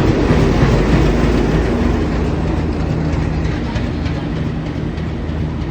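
WDG3A diesel locomotive's 16-cylinder ALCO engine running with a steady low drone under a wash of mechanical noise, slowly fading a little.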